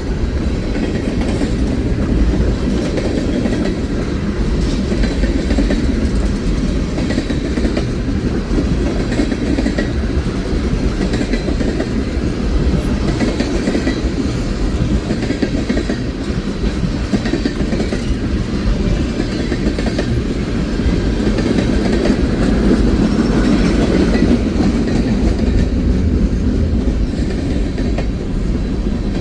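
Freight train rolling by, a steady rumble of railcar wheels on the rails with clickety-clack over the rail joints.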